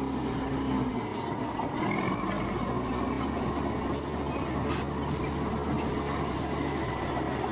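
Heavy diesel earthmoving machinery running steadily, with thin metallic squeals over the engine.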